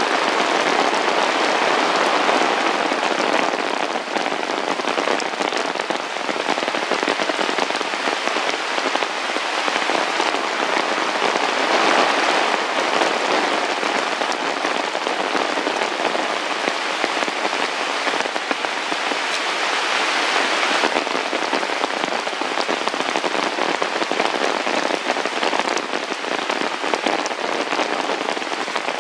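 Heavy rain falling steadily: a dense, even hiss of many drops hitting surfaces.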